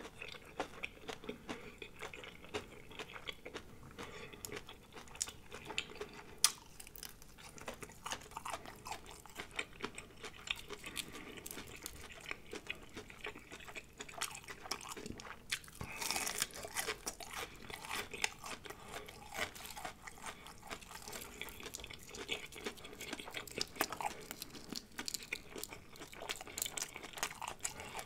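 Close-miked chewing of crispy breaded fried shrimp: crunching bites and wet mouth clicks, with a louder, denser run of crunching about halfway through.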